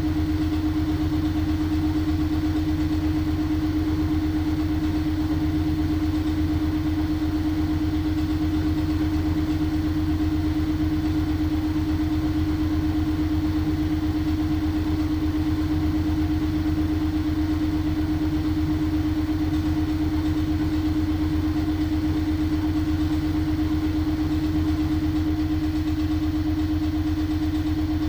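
LG washing machine spinning its drum at a steady speed, a constant motor hum over a low rumble.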